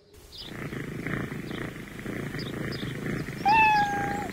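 Domestic cat purring steadily, with one short meow near the end and faint bird chirps behind it.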